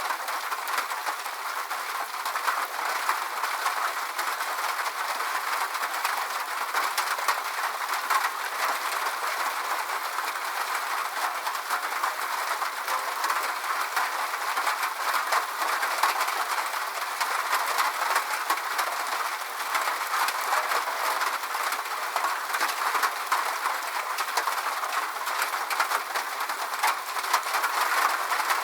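Steady rain falling, with a dense patter of fine drops.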